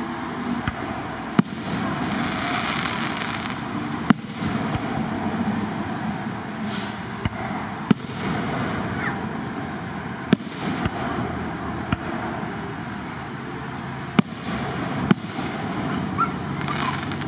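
Aerial firework shells bursting in the sky: about six sharp bangs, a few seconds apart, over steady background noise.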